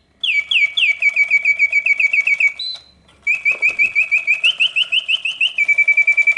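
1973 Reuge double singing bird cage's bellows-blown whistle singing its mechanical birdsong: quick runs of chirps, each sliding down in pitch, with a short break about three seconds in. Faint rapid clicking from the clockwork movement runs underneath.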